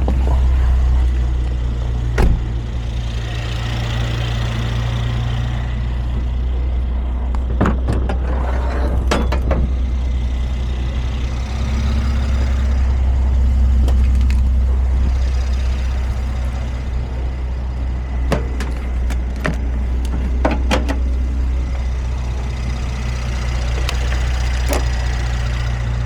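Mercedes Sprinter's 3.0 L OM642 V6 diesel running steadily at idle, with scattered sharp clicks and knocks over it.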